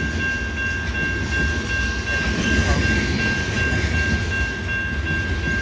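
Cars of a slow-moving loaded ore train rolling past: a steady low rumble, with a constant high whine held over it.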